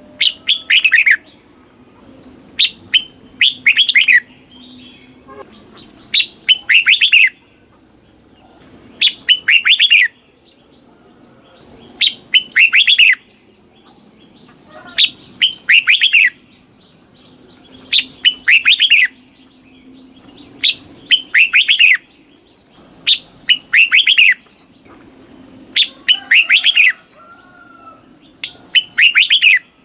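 Red-whiskered bulbul singing: short, loud phrases of quick falling whistled notes, repeated about every three seconds.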